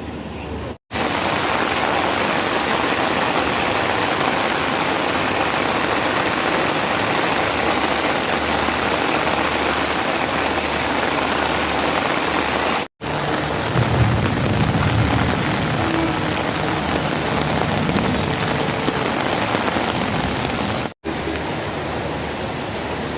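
Heavy rain falling steadily, an even hiss, broken by brief dropouts about a second in, about 13 seconds in and near the end.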